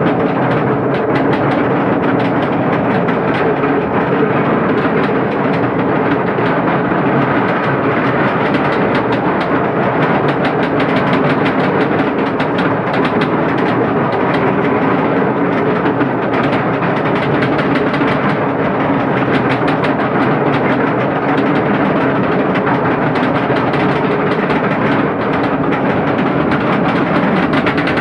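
Roller coaster lift chain clanking as the SheiKra train climbs the lift hill: a steady, rapid rattle of clicks.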